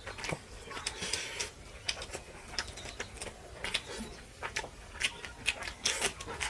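Eating sounds: chewing, lip smacks and wet mouth clicks, coming irregularly several times a second.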